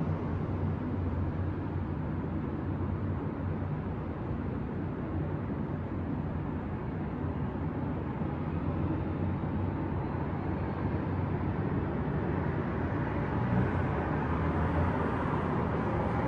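Steady city traffic noise: a low rumble under a softer hiss, swelling a little near the end.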